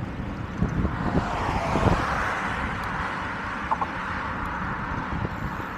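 Street traffic: a car passes with a whoosh that swells about two seconds in and slowly fades, over low wind rumble on the microphone.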